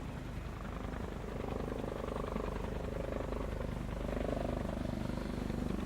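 Helicopter with a rapid rotor beat over a low engine hum, slowly getting louder as it approaches.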